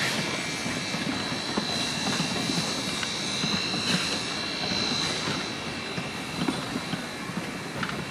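Narrow-gauge wooden passenger coaches rolling past on the rails, with wheels rumbling, occasional clicks and a steady high-pitched whine.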